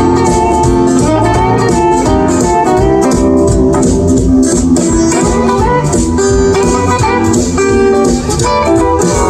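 A small band playing an upbeat instrumental intro with plucked and strummed guitars over a steady beat.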